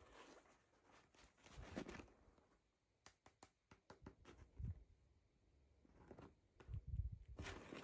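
Faint handling noises of toy packaging and small plastic doll pieces being unboxed: a few soft knocks, and a quick run of light clicks about three seconds in.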